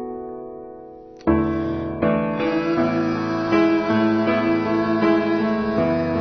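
Instrumental intro of a pop song, led by piano: a few soft notes die away, then about a second in the fuller accompaniment comes in louder and keeps playing.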